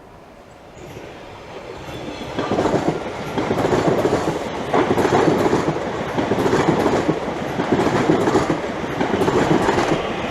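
Class 345 Aventra electric multiple unit coming through the station, its wheels clattering over the rail joints in repeated surges. It grows from about a second in and is loud from about two seconds on.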